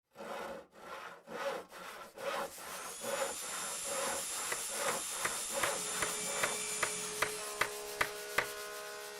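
Rhythmic rasping strokes of a hand tool working wood. They come slowly at first and then speed up, and steady ringing tones and a few sharp ticks join in the second half.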